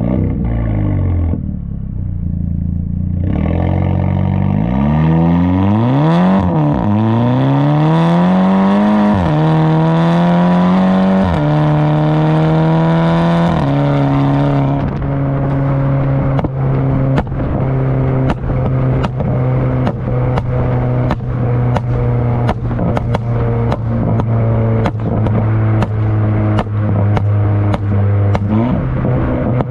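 Tuned VW GTI's turbocharged four-cylinder through a catless downpipe and Tomei exhaust, driving: the revs rise and fall, then climb through a few quick upshifts, each a sudden drop in pitch. It then settles into a steady cruising drone, with a regular ticking over it.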